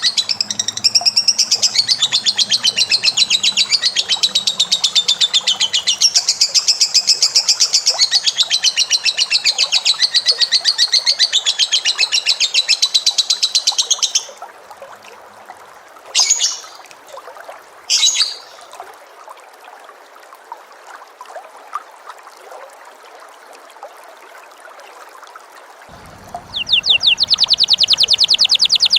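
A cage bird singing a long, very rapid chattering trill for about fourteen seconds, then two short bursts a couple of seconds apart, and the rapid trill starting again near the end.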